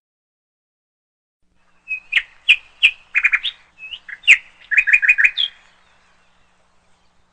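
A small songbird singing a quick run of sharp chirps and short trills, starting about two seconds in and stopping after about four seconds.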